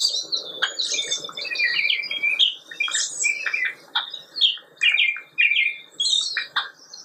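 Birds chirping and calling: quick, varied chirps and squawky notes in short phrases with brief pauses between them.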